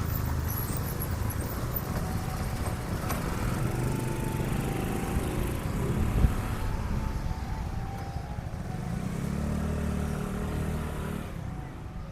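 A motor vehicle's engine running with a steady low rumble, with a brief louder thump about six seconds in.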